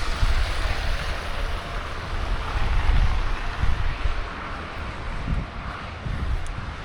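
Blizzard wind gusting across the microphone: an uneven low rumble under a steady rushing hiss.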